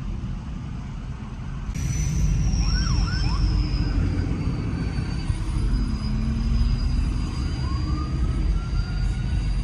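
Truck engines rumbling as trucks drive out, louder from about two seconds in, with a high steady whine above them and a tone that rises in pitch near the end.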